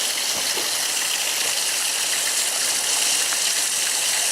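Heavy rain pouring down in a storm, a steady, very loud rushing hiss with a few faint scattered taps.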